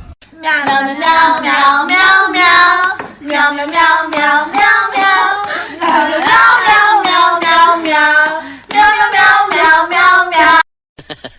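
A high-pitched voice singing a wavering melody in short phrases without clear words, stopping abruptly near the end.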